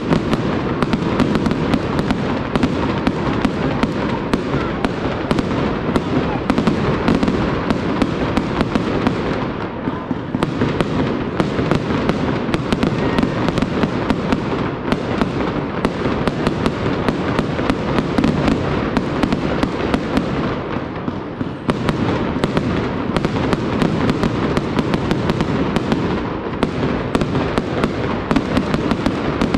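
Fireworks display: a dense, continuous barrage of bangs and crackles, easing briefly twice before building again.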